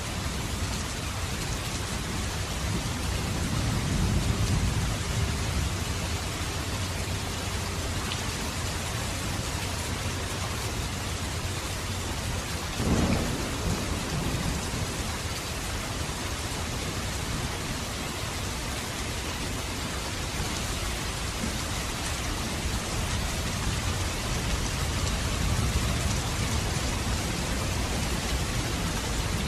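Steady rain with rolling thunder. A low rumble swells a few seconds in, a sharp thunderclap comes a little before halfway, and another rumble builds near the end.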